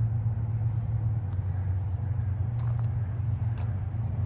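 A vehicle engine running steadily at a low, even speed, with a few faint clicks over it.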